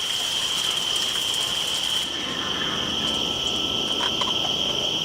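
Steady high-pitched chirring of insects, crickets or similar, with a higher hiss that cuts off about two seconds in.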